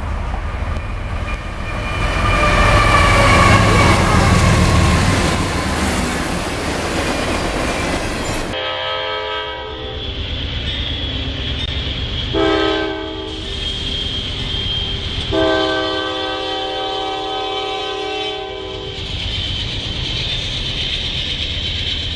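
A freight train rumbles past on the rails. Then, through a trackside webcam's duller sound, a diesel locomotive's multi-note air horn sounds a short blast and then a long one as a train nears a level crossing.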